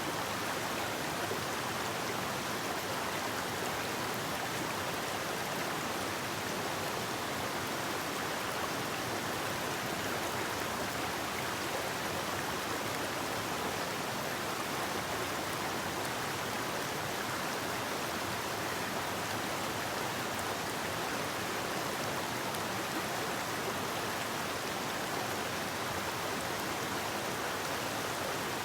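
Forest river flowing, a steady rushing of water over rocks.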